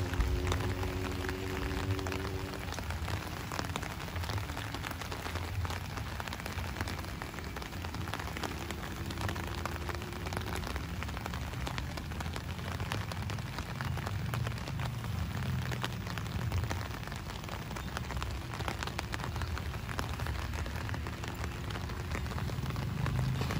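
Steady rain falling, with many individual drops ticking close to the microphone.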